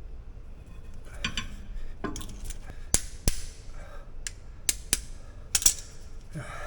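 Sharp metallic clicks and clinks, about seven spread through, as a brake pad and its retaining pins are worked into the rear disc brake caliper of a 2004 Toyota Corolla.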